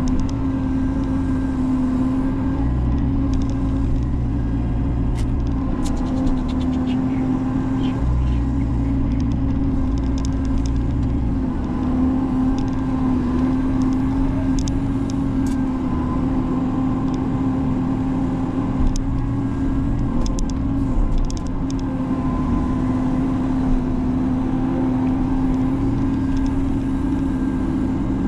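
Menzi Muck spider excavator's diesel engine running steadily under load, its low rumble swelling now and then, with scattered sharp clicks and knocks over it.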